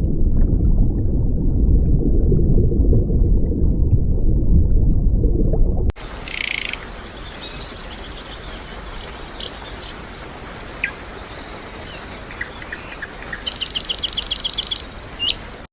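A loud low rumbling noise for about six seconds, then a sudden change to quieter outdoor animal sounds: scattered short high chirps and, near the end, a rapid pulsing trill.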